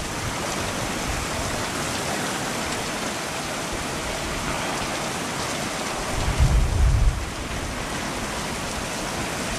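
Heavy rain pouring steadily, heard from under an RV awning, with a short low rumble about six seconds in.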